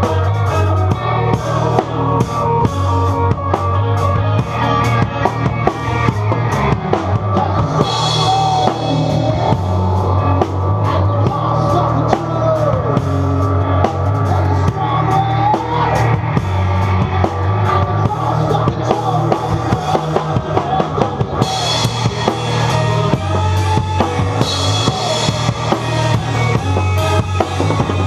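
Rock band playing, with a prominent drum kit of bass drum and snare beating steadily over sustained low bass notes.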